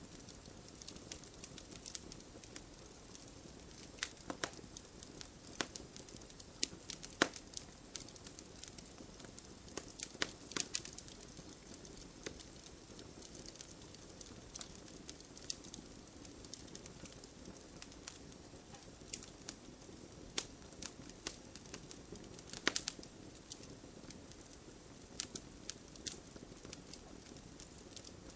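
Wood fire burning with irregular sharp crackles and pops over a steady low hiss, a few louder pops standing out.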